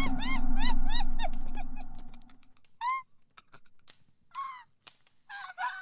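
Bird calls: a quick run of honking, rise-and-fall calls, about three a second, thinning out to a few single calls spaced a second or more apart. Under the first run, a loud rushing noise fades away over the first two seconds.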